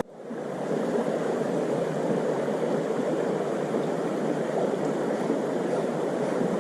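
Running stream water: a steady rushing that fades in over the first half second and then holds level.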